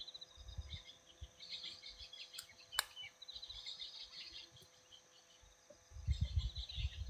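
Birds chirping faintly in quick repeated high calls, with a single sharp click about three seconds in and low rumbling thuds near the end.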